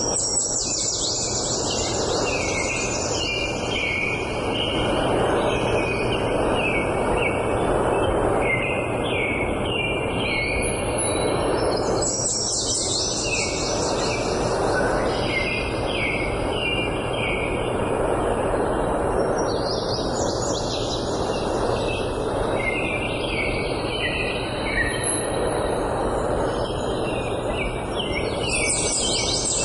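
Songbirds singing in repeated phrases of quick short notes over a steady rushing background noise.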